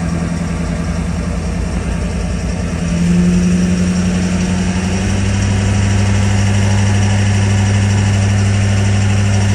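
A car engine running steadily. About three seconds in its speed rises a little, and it holds there at a fast idle.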